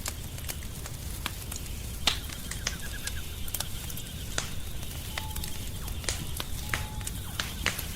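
Wood fire crackling, with sharp irregular pops from the burning logs over a low, steady rumble of flame. A faint high steady tone runs underneath, and two short tones sound about five and seven seconds in.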